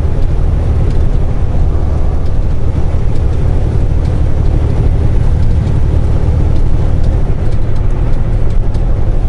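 Steady low engine and road rumble of a semi truck heard from inside the cab while driving.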